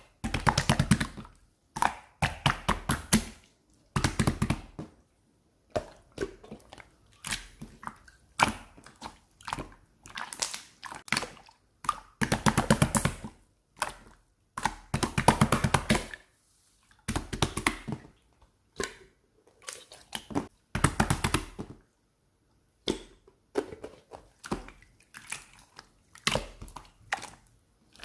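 Crunchy chewing or crushing: repeated bursts of dense crackling, each up to about a second and a half long, with short silent pauses between.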